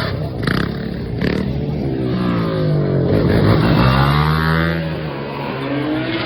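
A motor vehicle engine revving, its pitch rising and falling several times.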